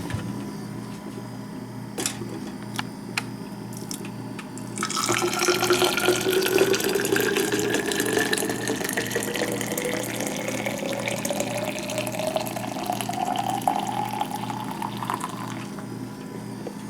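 Water running from a tap into a container, starting about five seconds in. Its pitch rises steadily as the vessel fills, and it tails off near the end. A few light clicks come before it.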